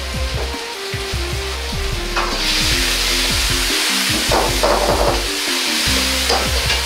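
Cherry tomatoes and sliced garlic sizzling in a hot wok, the sizzle growing louder about two seconds in, with a metal ladle scraping and stirring against the wok near the middle. Background music plays throughout.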